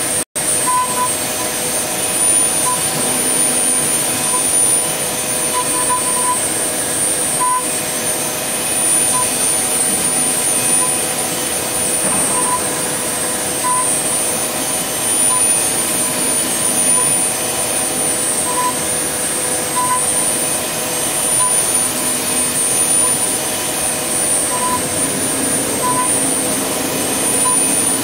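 CNC wood lathe's router spindle running steadily with a 6 mm ball-nose bit on a finishing pass: a constant high whine over even machine noise, with small irregular tones as the cutter works the wood.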